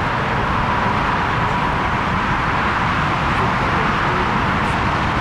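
Jet engines of a Lufthansa Airbus A340-300 airliner running steadily: an even jet rush with a faint steady high whine.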